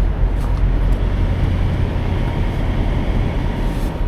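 Semi truck's diesel engine running: a steady low drone with an even hiss above it.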